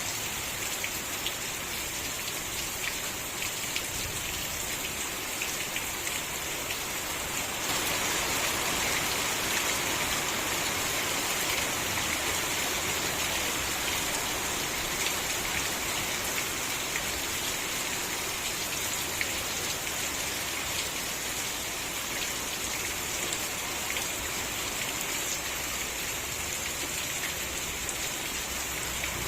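Steady rain falling on a surface, many individual drops ticking through the hiss; it grows slightly heavier about a quarter of the way in.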